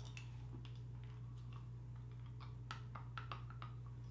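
Faint, irregular clicks and smacks of someone chewing a firm Starburst Duos fruit chew that is hard to bite into, over a steady low hum.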